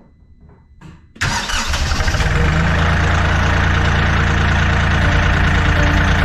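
Kioti CK3510 compact tractor's diesel engine firing up about a second in. It runs loud and uneven for about a second, then settles into a steady run.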